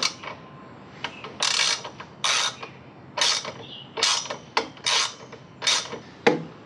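Socket ratchet clicking in a run of about eight short strokes, turning a bolt into the heat-shield mount on a motorcycle exhaust header pipe.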